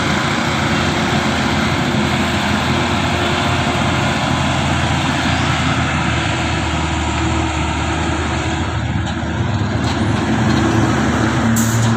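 Truck engine running steadily under a continuous rush of road and vehicle noise, with a brief high hiss near the end.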